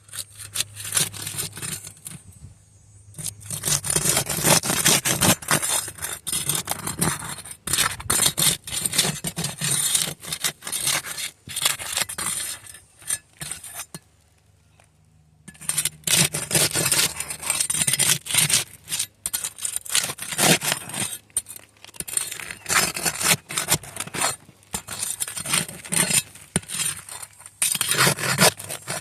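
Gritty scraping and crackling of shoes scuffing across brittle asphalt roof shingles. It comes in two long stretches with a short pause about halfway.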